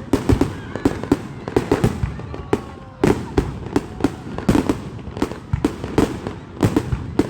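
Fireworks going off: a rapid, irregular string of sharp bangs and pops, several a second, which sound like gunfire.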